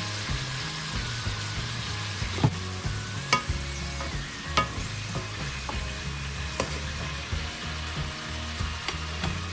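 Chicken sausage and vegetables sizzling in hot oil in a pan as they are stir-fried, with a utensil knocking sharply against the pan about five times.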